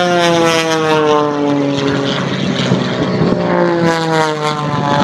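Propeller airplane engines passing overhead, the engine drone dropping in pitch as each goes by, twice.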